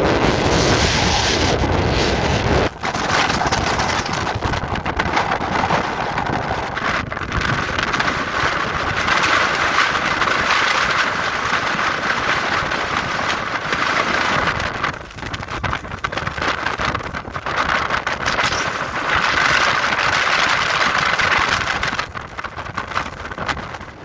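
Strong wind blowing across the microphone: loud, rushing buffeting that swells and eases in gusts, with a heavy low rumble in the first few seconds and brief lulls about two-thirds of the way through and near the end.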